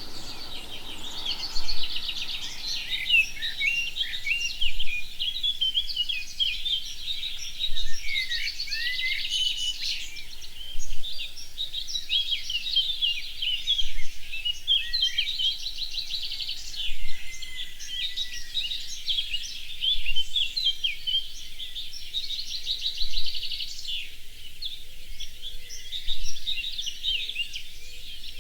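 Songbirds singing together in a dawn-chorus-like mix of chirps and whistles, one of them repeating a loud, fast trill about every three seconds.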